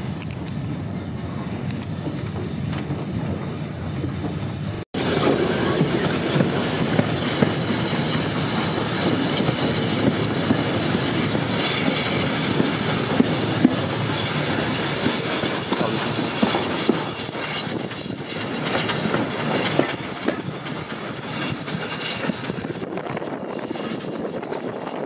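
A railway carriage running along the track, heard from the train: a steady rumble and rush with the clatter of wheels over the rail joints. The sound drops out briefly about five seconds in and is louder after it.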